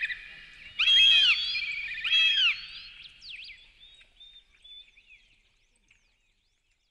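Wild songbirds singing: whistled phrases and fast trills, with louder phrases in the first two seconds, then fading away and gone about six seconds in.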